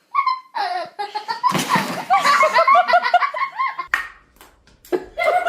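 A person laughing hard: a run of quick, repeated laughs through the middle, a brief pause, then more laughter near the end.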